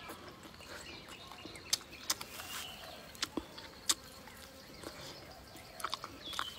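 Close-up chewing of braised meat: scattered wet mouth clicks and lip smacks, a few of them sharp, with a cluster near the end.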